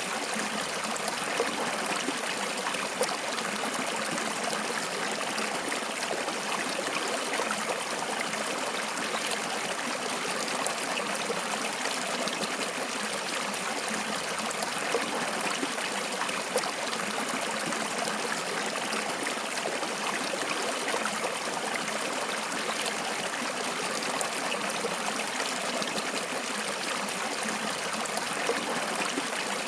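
Stream water flowing and trickling steadily, with small splashes here and there.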